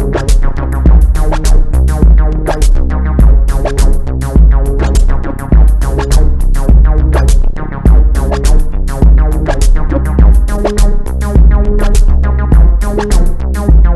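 Minimal electronic music: an IK Multimedia UNO Drum drum machine playing a steady beat of deep kicks and crisp hi-hat ticks under repeating synthesizer notes.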